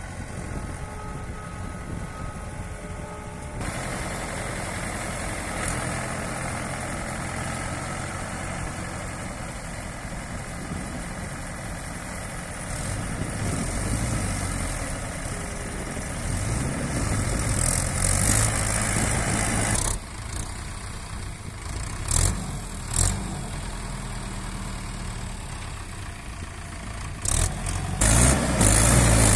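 Mahindra tractor's diesel engine running under load, with repeated bursts of revving as the stuck tractor tries to pull free.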